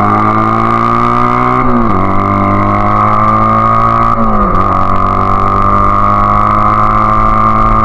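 Honda Rebel CA125 engine through an aftermarket BSM/Highway Hawk exhaust, pulling under load as the bike accelerates. The pitch climbs steadily, drops sharply on an upshift about a second and a half in and again about four and a half seconds in, then climbs again. This is a road test of the rejetted carb with the 102 main jet.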